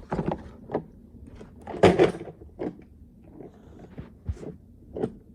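Plastic toy garbage truck being handled, its parts clicking and knocking against each other in a run of separate knocks, the loudest about two seconds in.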